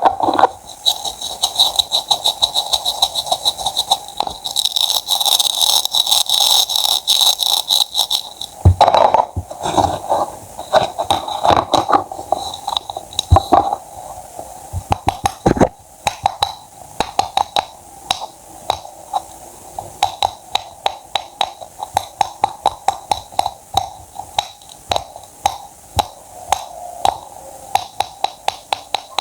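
Knife cutting produce on a cutting board in quick, sharp strokes, dense for the first several seconds and then settling into an even chop of about three or four strokes a second.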